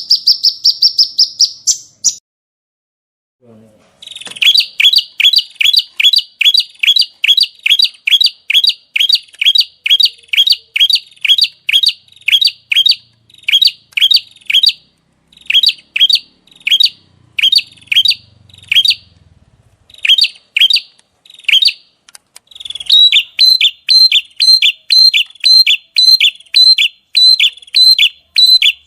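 A small songbird repeating a rapid series of short, sharp, falling chirps at about three to four a second. This is the 'tembakan' (shot) phrase used in masteran recordings. The series breaks off for about two seconds near the start and pauses briefly a few more times.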